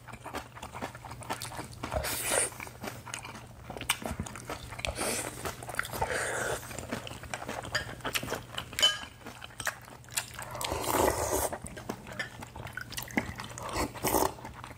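Close-miked eating sounds: chewing, biting and wet mouth noises from people eating stir-fried spicy pork and lettuce wraps, in several short bouts, with scattered light clicks of chopsticks and spoons against bowls.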